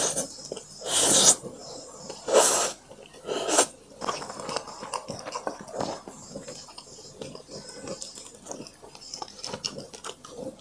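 Close-miked eating sounds: three loud noisy bites or mouthfuls in the first four seconds, then steady soft, wet chewing with many small clicks.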